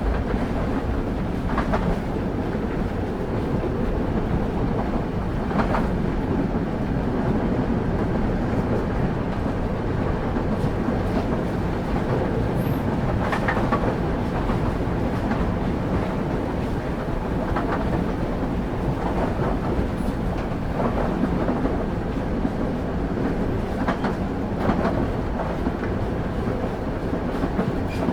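Passenger train running steadily, heard from on board: a continuous low rumble of wheels on track, with a click from a rail joint every few seconds.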